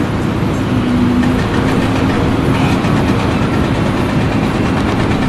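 Heavy machinery engine running steadily under load, with a dense mechanical rumble.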